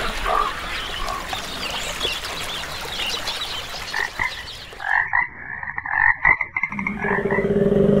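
Frogs croaking: a run of short, repeated calls. About seven seconds in, a koala's low bellow starts.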